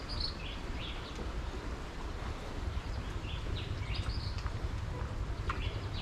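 Scattered short bird chirps, some with a quick slide in pitch, over a steady low rumble.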